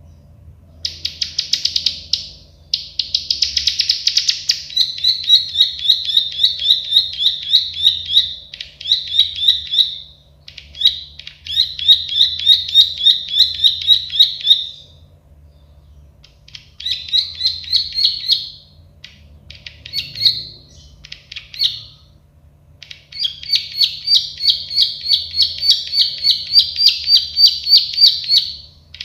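Prenjak sawah (plain prinia) singing its clicking song: long runs of rapid, sharp notes, about five a second, in phrases several seconds long with short pauses between.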